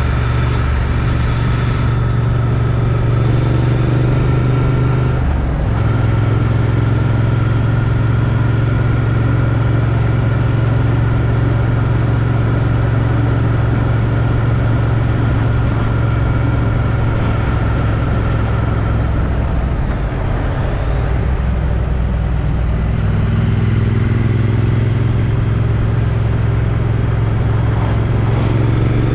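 Triumph Street Twin's 900 cc parallel-twin engine on its stock exhaust, running steadily under way, heard from a helmet chin mount. The engine note breaks briefly about five seconds in. About twenty seconds in the revs ease off, then build again a few seconds later.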